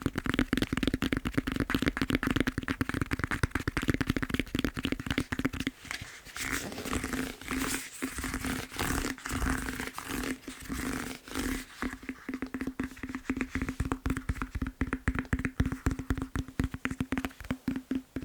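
Fingertips tapping very fast on a foam massage roller, a dense stream of quick taps. About six seconds in, the taps give way for a few seconds to slower, longer scratchy strokes, then the fast tapping resumes.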